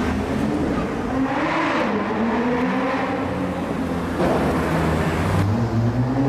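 Supercar engines revving as cars drive past, the pitch rising and falling several times, with a fresh rise near the end.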